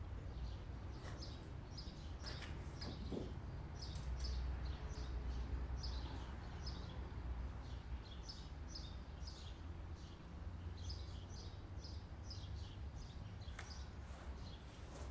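Small birds chirping: many short, high chirps one after another, over a low steady rumble.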